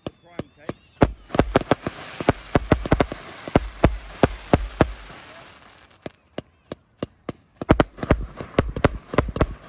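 Aerial fireworks going off in a rapid volley of sharp bangs, with a dense hissing crackle under them for the first several seconds. A brief lull follows, then another quick run of bangs near the end.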